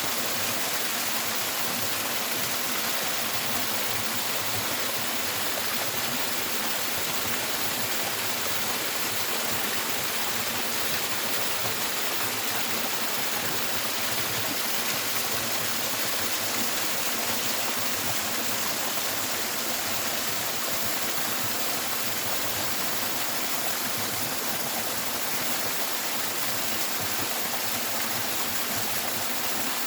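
Running water rushing steadily, an even unbroken hiss.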